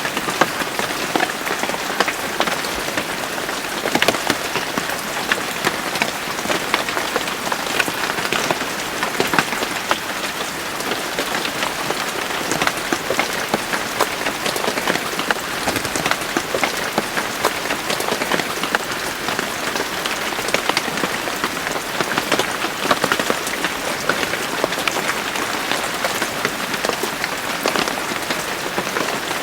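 Steady rain falling, with a dense patter of many individual drops striking a surface.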